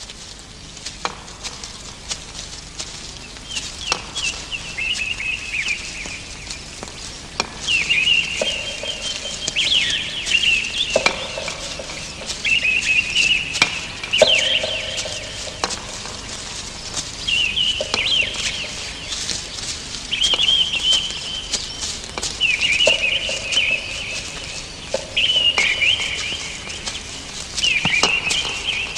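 Birds calling in a forest: high warbling calls repeated every couple of seconds, some with a lower steady note beneath, and a few sharp clicks in between.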